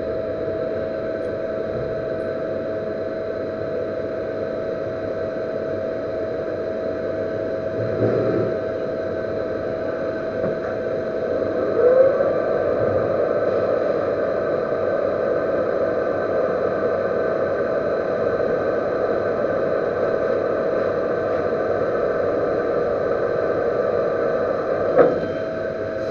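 Metal lathe running steadily with a constant whine, turning down the bearing seat on a servo motor shaft. About twelve seconds in the pitch briefly rises and the sound gets a little louder, and there is a short knock near the end.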